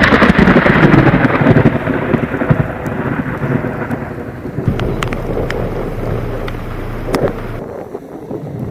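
Thunder rolling over steady rain: a long deep rumble, loudest at first and slowly fading, with a few sharp raindrop ticks. The sound drops away abruptly about a second before the end.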